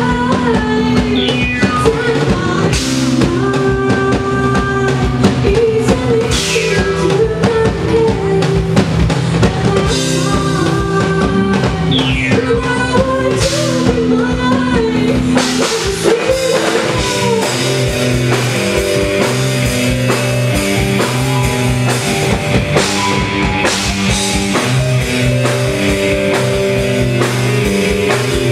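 Live band music with a driving drum kit, bass and sustained keyboard notes, and a voice singing at times.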